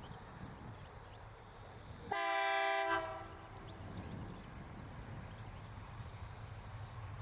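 Diesel freight locomotive's multi-tone horn giving one short blast about two seconds in, ringing on briefly after it stops, over the low steady rumble of the train's diesel engines.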